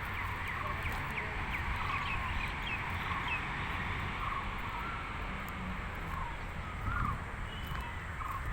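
Many birds chirping and calling, short rising and falling chirps throughout, over a steady low rumble.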